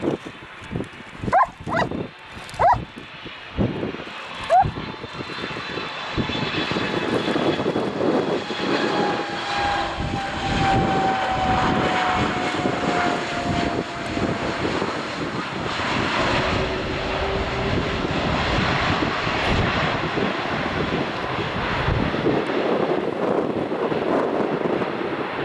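Jet engines of an Airbus A310 (RCAF CC-150 Polaris) on its landing pass, the noise building from about six seconds in and staying loud, with a high whine and a tone that slides downward as the aircraft goes by. A few short rising chirps come before the noise builds.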